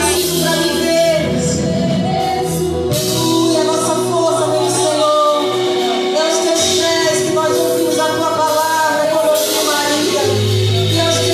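Gospel worship song: voices singing a melody over band accompaniment with drums and cymbals.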